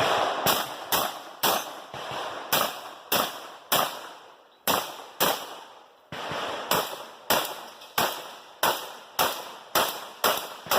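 Rock Island Armory VR-80 12-gauge semi-automatic shotgun being fired in a rapid string of about twenty shots, roughly two a second, with a couple of short pauses between targets. Each shot rings out with a long echoing tail.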